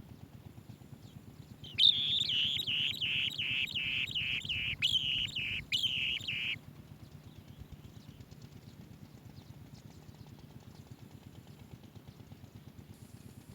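Asian green bee-eater calling: a rapid run of high chirps, about three a second, starting about two seconds in and stopping after about five seconds, over faint low background noise.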